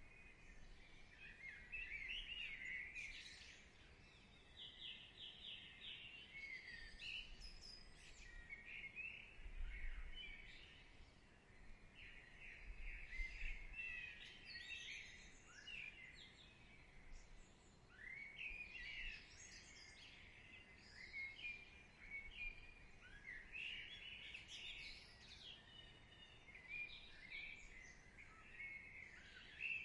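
Faint birdsong: several small birds chirping and warbling in quick, overlapping calls.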